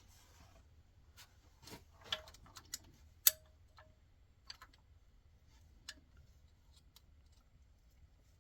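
Scattered metallic clicks and clinks of hand tools and bolts being handled. One sharp, ringing clink comes about three seconds in.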